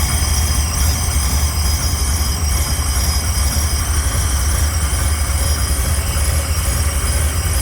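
A machine running steadily: a loud low rumble with a few faint high-pitched whines held over it.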